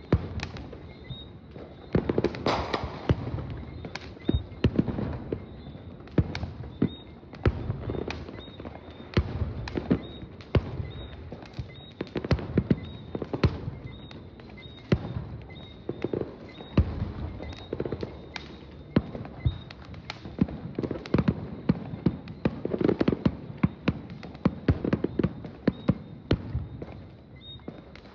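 Fireworks display: an unbroken barrage of sharp bangs and crackles, several a second, with deeper rumbling booms swelling in between.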